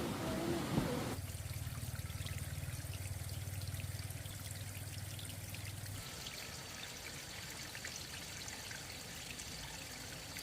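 Water trickling and pouring, with scattered small drips. A low steady hum sits under it for the first few seconds.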